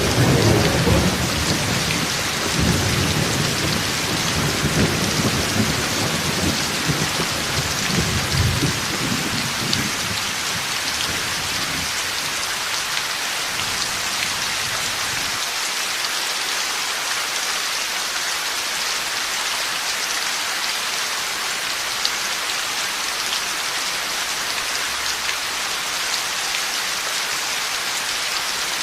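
Heavy rain pouring steadily, with thunder rumbling low through the first several seconds and dying away about ten seconds in, leaving the even hiss of the rain.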